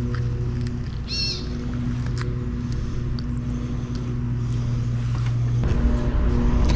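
A motor running steadily: a low, even hum with overtones that gets a little louder near the end. There is a short high chirp about a second in and a few light clicks.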